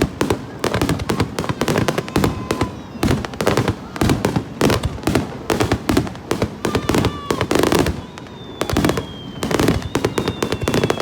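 Fireworks display: a rapid, unbroken barrage of bangs and crackles, many bursts overlapping. A thin, high whistling tone sounds from about eight seconds in.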